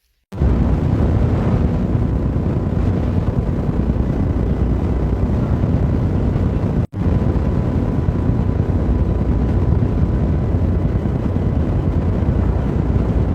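Strong windstorm wind buffeting the microphone: a loud, steady, deep rumbling roar that starts abruptly and breaks off for a moment about halfway through.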